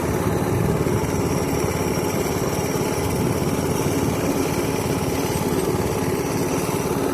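Small single-cylinder pit bike engine running steadily while being ridden, at an even speed without revving up or down.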